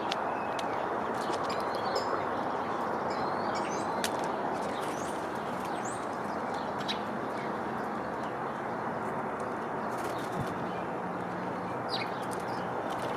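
Wild birds giving short, scattered chirps and calls, with a few sharp clicks, over a steady low background rush.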